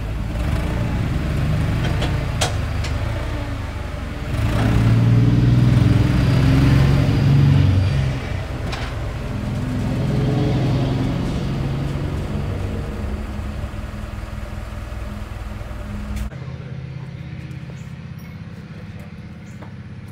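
Forklift engine running, revving up louder for a few seconds and easing off again. Near the end it drops abruptly to a quieter steady hum.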